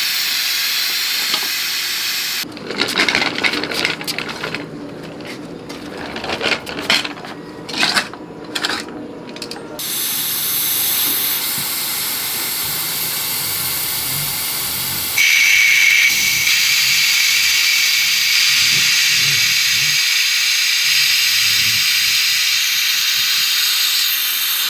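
A loud, steady hiss of spray or escaping air, interrupted a couple of seconds in by several seconds of irregular clicking and clattering, then hissing again and growing louder about halfway through.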